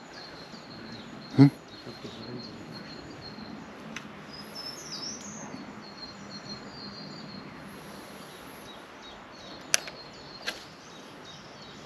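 Songbirds chirping over a steady outdoor background hiss. A brief loud vocal sound comes about a second and a half in, and two sharp clicks come near the end.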